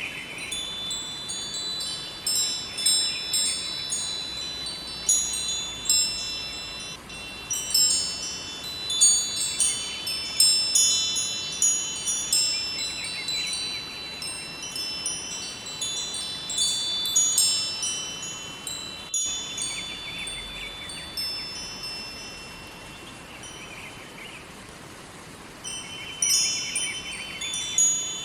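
Wind chimes ringing in irregular clusters of high, bright tones over the steady rush of a river, the chimes thinning out for a few seconds past the middle before picking up again.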